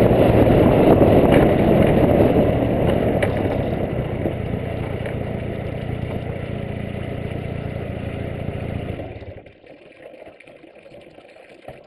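Turbocharged 1.8-litre four-cylinder engine of a VW Golf Mk2, heard from the bonnet, with road and wind rush fading as the car slows to a stop and idles. About nine and a half seconds in the engine sound cuts off suddenly, leaving only a faint background.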